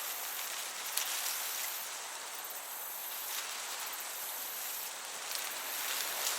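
Field crickets chirping steadily and high-pitched over a soft hiss of breeze, with a sharp tick about a second in.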